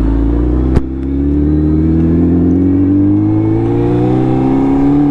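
Suzuki Hayabusa's inline-four engine at full throttle, its pitch climbing steadily for several seconds, with a sharp click about a second in.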